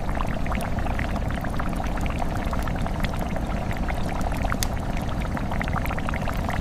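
Liquid pouring steadily, with many small crackling splashes over a low rumble.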